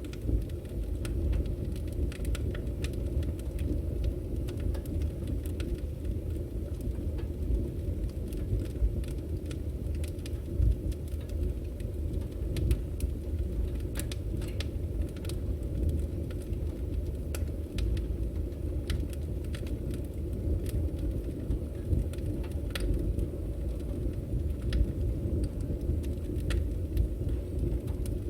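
Wood fire burning: a steady low rumble of the flames with scattered, irregular sharp crackles and pops from the burning firewood.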